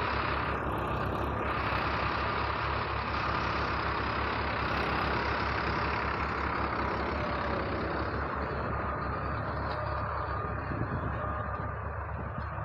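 Eicher 380 and Mahindra 405 Yuvo Tech+ tractors' diesel engines running steadily together in L2 gear at about 1500 RPM, with an even low pulsing, easing off a little near the end.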